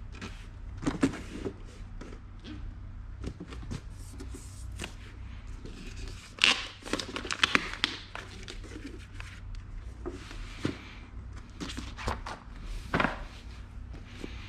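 Boxes and packaging being handled by hand while unboxing: scattered knocks, taps and thunks, with a busier stretch of sharp clicks and rustling about six to eight seconds in, over a low steady hum.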